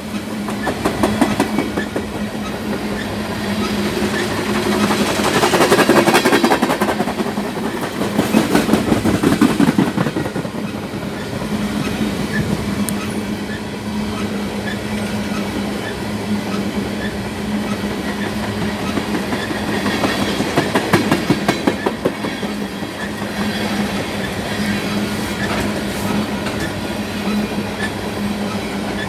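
Freight train of crude oil tank cars passing at speed, its steel wheels clattering on the rails. Under it runs a steady hum, and the sound swells louder several times.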